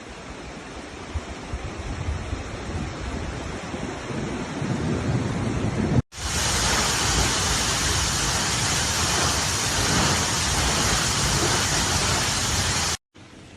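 Floodwater rushing through a desert wadi: a steady roar of moving water. It cuts off abruptly about six seconds in and is replaced by a louder, hissier rush of water that stops just before the end.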